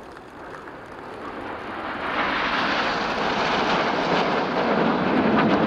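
A formation of BAE Hawk T1 jet trainers flying past, their Adour turbofan engines making a broad jet noise that swells over the first two seconds and then stays loud.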